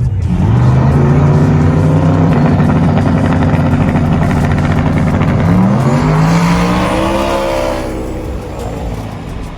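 Race truck engine running hard at steady revs, then climbing sharply in pitch about five and a half seconds in and holding high before fading near the end.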